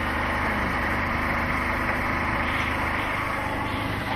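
Motorcycle engine running steadily while the bike is ridden, with a continuous rushing noise from the ride.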